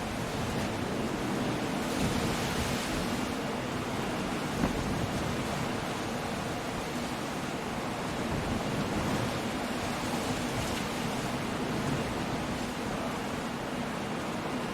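Coastal storm ambience: continuous roar of surf breaking against rocky cliffs, mixed with wind and rain. The surf swells about two seconds in, and a single short knock sounds a little before halfway.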